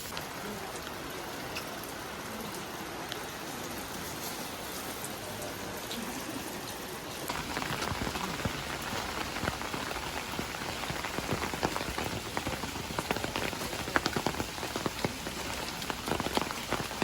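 Steady rain falling, becoming louder about seven seconds in, with many sharp drops ticking on a nearby surface.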